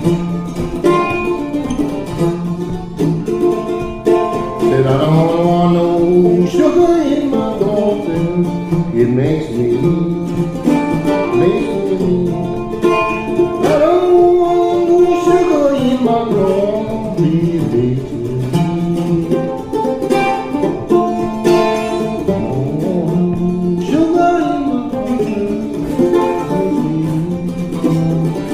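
Mandola picking a blues tune over a steady repeating bass figure. A wordless voice slides between notes over it three times.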